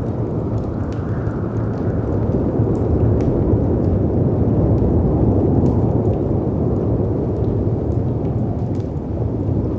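Mixed storm ambience: a steady low rush of wind and sea waves that swells and eases slowly, with scattered sharp pops and crackles from a wood fire.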